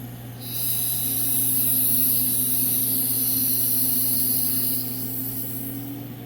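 Air hissing steadily as a vacuum checker draws on a 200-4R transmission pump's pressure regulator valve bore, over a steady machine hum. The hiss starts about half a second in and fades near the end.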